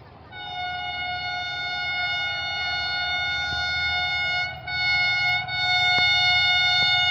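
Pakistan Railways HGMU-30 diesel locomotive's multi-tone air horn sounding as the express approaches: a long blast of about four seconds, a short one, then another long one, over the low rumble of the oncoming train.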